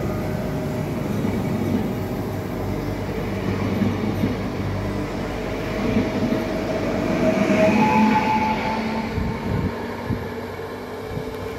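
PESA Elf (EN76) electric multiple unit pulling out, its wheels rumbling on the track under a steady electric traction whine. About eight seconds in, the whine steps up to a higher tone as the train gains speed, then the sound fades as it moves away.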